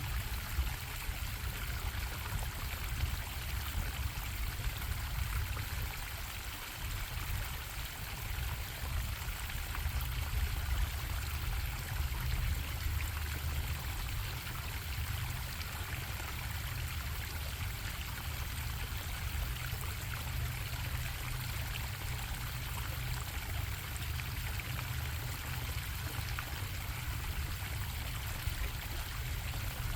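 Stream water running and bubbling steadily, over a low rumble.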